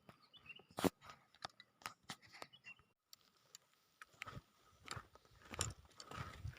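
Faint scattered crunches and clicks, then a person's footsteps on dry ground litter coming in about four seconds in, roughly one step every two-thirds of a second.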